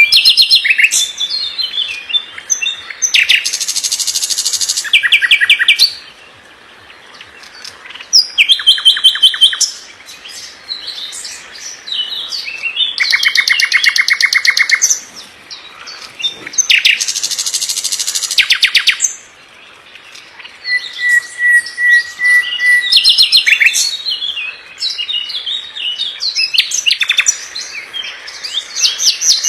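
A songbird singing a loud, varied song in phrases of a few seconds separated by short pauses, mixing fast repeated-note trills, high buzzy bursts and short held whistles.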